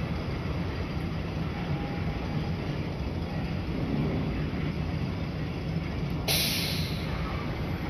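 Steam train running, a steady rumble of wheels and cars, with a sudden burst of hiss about six seconds in that eases off over a second or so.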